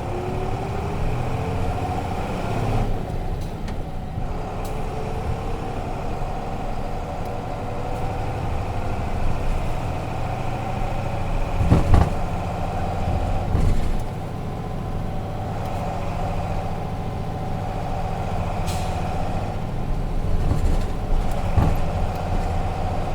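Nissan Diesel RM bus's FE6 inline-six diesel engine heard from inside the cabin while driving. The engine pitch rises over the first few seconds, then the engine runs steadily. A sharp thump comes just before twelve seconds.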